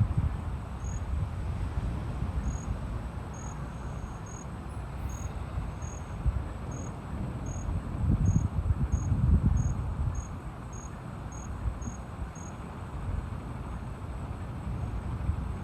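A cricket chirping in short, evenly spaced high chirps, about one and a half a second, that stop near the end. Under it runs a low rumble of storm wind and rain that swells for a few seconds around the middle.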